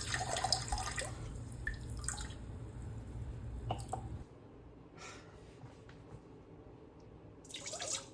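Water running from a kitchen tap into a measuring cup, shut off about four seconds in. A few faint clicks follow, and a short burst of noise near the end.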